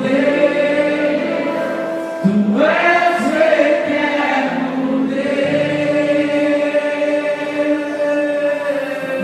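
Congregation and worship band singing a slow Portuguese worship song, long notes held between lines.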